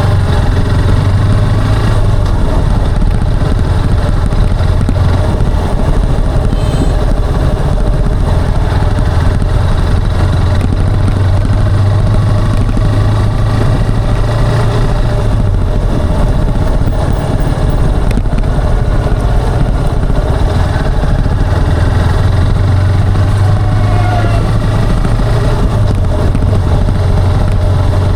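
A motorcycle's engine and exhaust running steadily while riding, heard from the rider's position, with a continuous low drone that swells and eases slightly.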